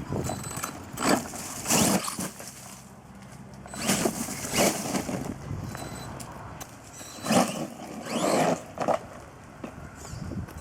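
Brushless-motor RC monster truck on a 3-cell LiPo driven in repeated bursts of throttle across tarmac: the motor whine and tyre noise surge and drop away several times, with a clear rising whine about seven to eight seconds in.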